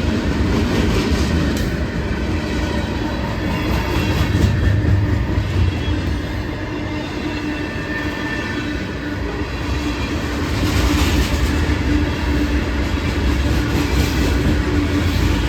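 Train cars rolling past close by, steel wheels clattering over the rail joints with a steady low rumble, and a brief faint wheel squeal about eight seconds in.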